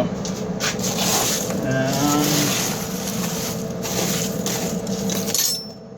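Coal forge's electric blower fan running low, with a steady hum and air rushing up through the fire, and the burning cardboard and coke crackling now and then. The rush of noise drops away briefly near the end.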